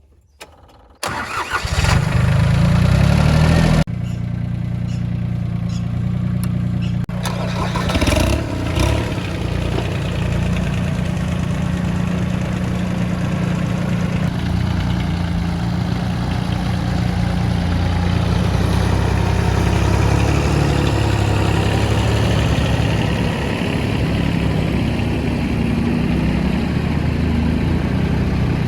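Compact tractor's diesel engine cranking and starting about a second in, then running steadily, with a brief dip in loudness a few seconds after it catches.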